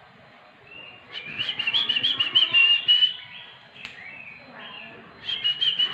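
Oriental magpie-robin (kacer) singing: a rapid burst of chattering, whistled notes starting about a second in and lasting about two seconds, then a shorter burst near the end.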